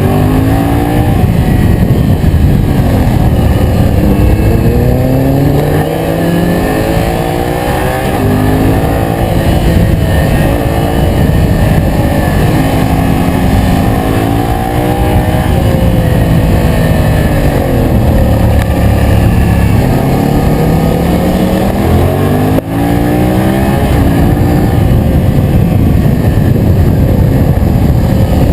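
Yamaha MT-07's 689 cc parallel-twin engine heard onboard while riding, its revs repeatedly climbing and dropping back through the gears, with road and wind noise under it.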